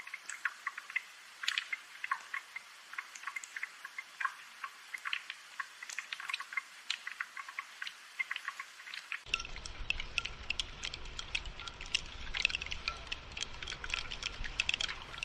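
Steady rain, with many sharp irregular drops pattering and dripping over a faint hiss. A low rumble joins about nine seconds in.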